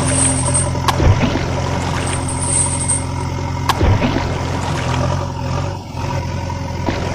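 Steady engine hum with sharp knocks about a second in and again near four seconds in.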